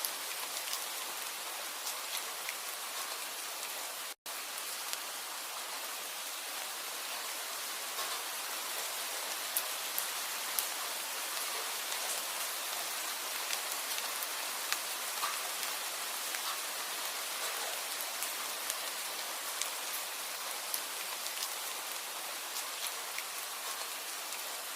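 Steady rain: an even hiss with many individual drops ticking on a surface. The sound cuts out for an instant about four seconds in.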